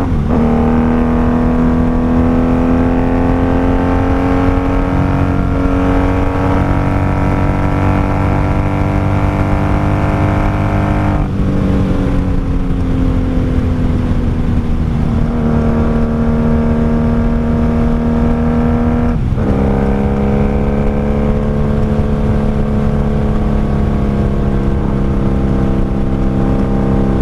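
1995 Honda Magna VF750C's V4 engine and four exhausts running under way, a steady even note that slowly rises and falls with the throttle. The note breaks briefly about 11 and 19 seconds in, as at gear changes.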